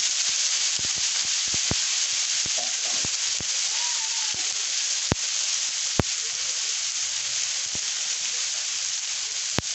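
Chopped tomato and onion sizzling in cooking oil on a tawa griddle: a steady hiss with scattered pops and crackles of spitting oil, a few louder pops late on.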